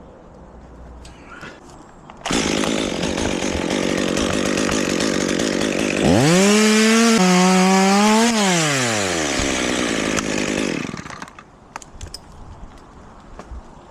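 Chainsaw starts up about two seconds in and runs. It revs up to high throttle for about two seconds, drops back down, and shuts off a couple of seconds later.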